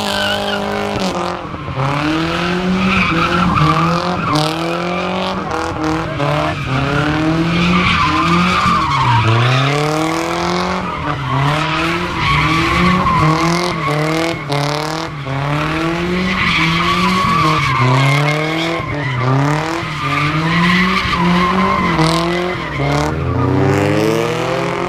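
Car engine revving hard in repeated rising surges, roughly one a second, with the tyres squealing throughout: a car being spun in a burnout or donuts.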